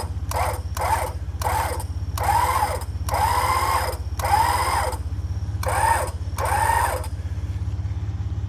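Rebuilt Warn M8274 electric winch motor jogged in quick short bursts, then run in longer pulls of about half a second to a second each, each pull a whine that rises and then falls. The pulls stop about seven seconds in, leaving a vehicle engine idling steadily underneath.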